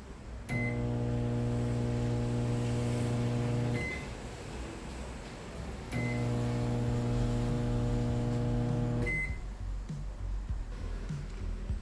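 Microwave oven started and stopped twice, each run lasting about three seconds: a short key beep, then a loud, low buzzing hum with many overtones, then another beep as it stops. The hum is the strong noise of the fault, which the uploader puts down to a failing high-voltage capacitor.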